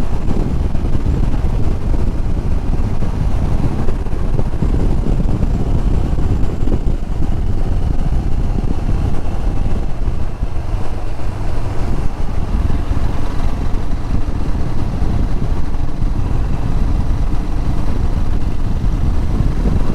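Royal Enfield Himalayan's single-cylinder engine running steadily while riding, mixed with wind buffeting the microphone.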